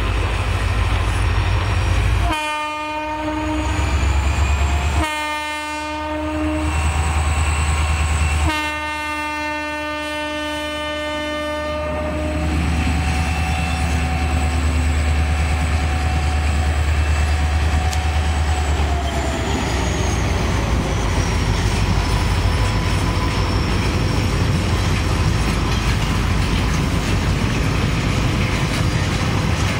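Locomotive air horn sounding three blasts, the last the longest. The train then rolls past with a steady low rumble and wheels clacking over the rail joints. About two-thirds of the way in, a tone in the sound slides down in pitch as the locomotive goes by.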